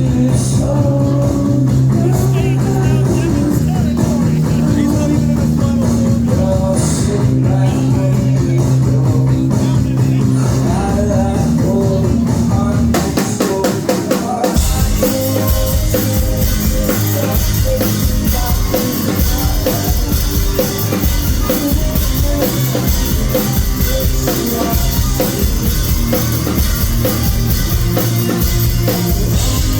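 Live rock band playing loud through a phone's microphone: held, ringing guitar and bass chords for the first half, then about halfway through the drums kick in and the full band comes in with a steady beat.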